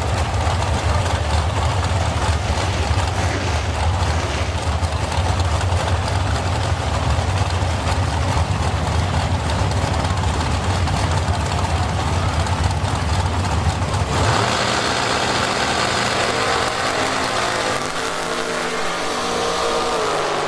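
Drag racing car engine idling with a heavy low rumble; about 14 seconds in the sound changes suddenly to a higher engine note that steps up in pitch.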